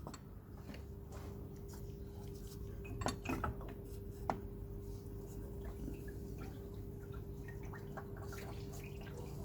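Faint metallic clinks and taps as the water pump is worked free of the engine: a few close together about three seconds in and a single one about a second later, over a faint steady hum.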